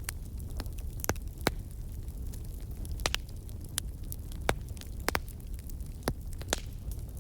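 Wood fire in a fireplace crackling: frequent sharp pops and snaps at irregular intervals over a steady low rumble of the flames.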